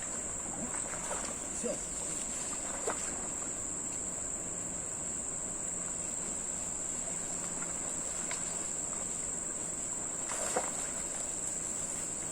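Insects droning in one steady high-pitched tone, with a few brief knocks, the sharpest about ten seconds in.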